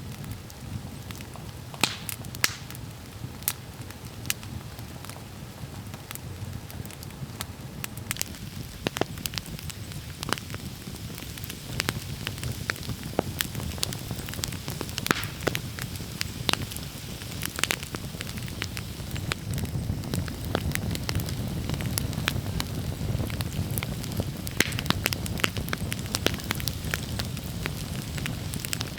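Wood campfire burning, crackling with irregular sharp pops over a low steady rumble of flames that grows somewhat louder in the second half.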